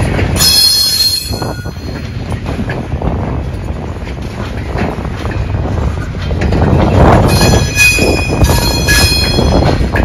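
Freight train's gondola cars rolling past at close range, a steady rumble of steel wheels on rail. A high-pitched metallic squeal from the wheels rises just after the start and again for a couple of seconds about seven seconds in.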